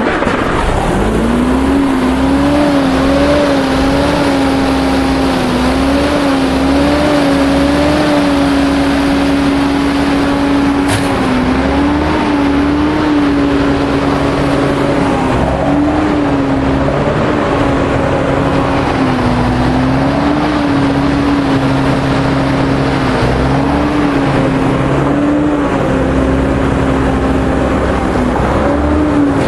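MAN 32.281 tipper truck's diesel engine running at steady revs. Its droning tone rises just after the start, then wavers slightly up and down over a low rumble.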